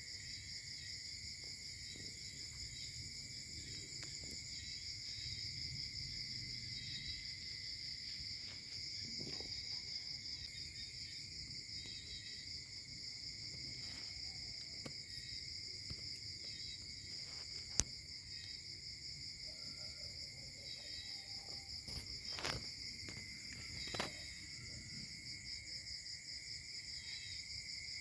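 Steady night chorus of trilling insects such as crickets, several pitches going on at once without a break. A few brief sharp clicks stand out in the second half.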